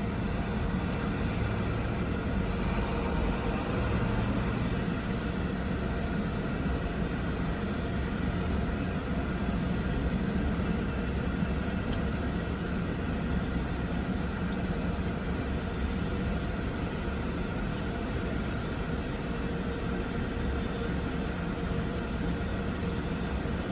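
Steady rumble and rushing noise of an automatic conveyor car wash, heard from inside the car's cabin as the car is pulled through in neutral.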